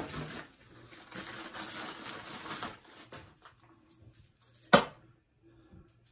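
Rustling and light clicking of a chainsaw guide bar being handled and set up on the saw, with one sharp knock about three-quarters of the way through.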